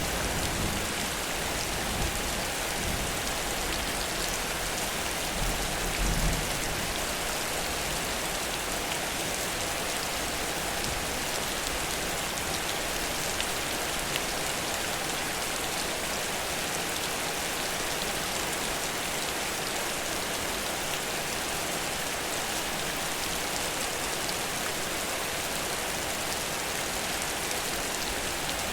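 Heavy rain falling steadily, a dense even hiss of drops on surfaces. A brief low rumble comes in about six seconds in.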